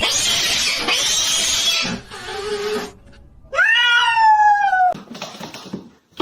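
Cat yowling: one long drawn-out call about three and a half seconds in, after about two seconds of harsh, hiss-like noise.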